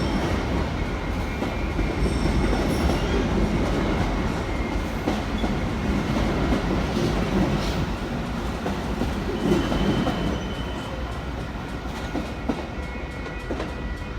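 Train running on the rails: a steady rumble with wheel clatter, easing off a little after about ten seconds.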